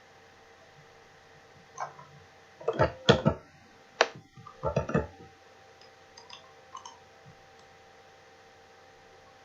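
Clicks and taps of a computer mouse and keyboard at a desk: a few sharp clicks about two seconds in, a quick loud cluster around three to five seconds, then a few faint ones. A faint steady electrical hum sits under them.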